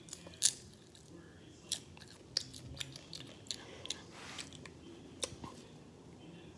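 Popcorn being crunched and chewed close to the microphone: irregular sharp crackles, the loudest about half a second in.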